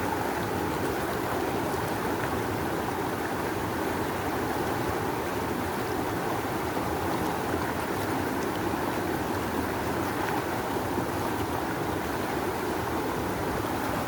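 Rushing river water flowing steadily: a constant, full rush of water with no breaks.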